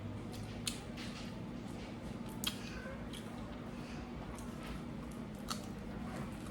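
Close-miked eating sounds: chewing and wet mouth noises with a few sharp clicks, over a steady low hum.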